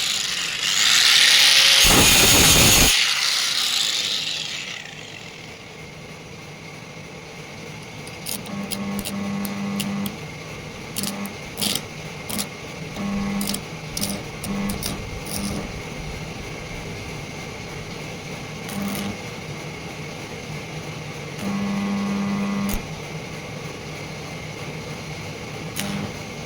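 A power tool runs loudly for the first few seconds, then dies away. After it come short, repeated bursts of a low electrical hum and scattered sharp clicks.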